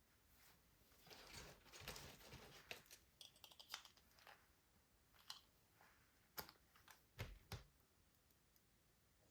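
Soft rustling and crinkling of toy packaging being handled, followed by a series of sharp clicks and light taps of plastic toys.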